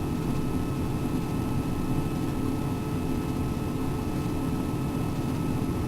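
Steady mechanical hum with a few faint held tones, unchanging throughout.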